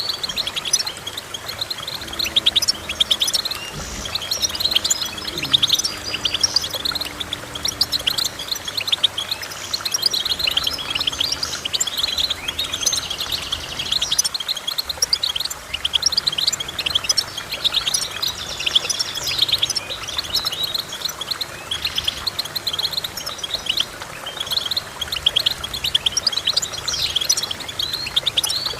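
Small finch singing a fast, continuous twittering song of rapid high chirps and trills, with no pauses.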